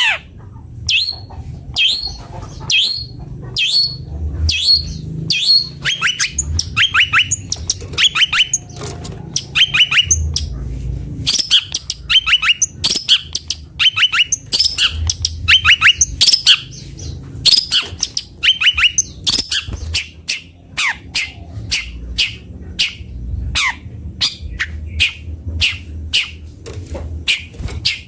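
Long-tailed shrike (cendet) singing: a long run of short, sharp, downward-sweeping notes, repeated one after another in quick series, with a low rumble underneath.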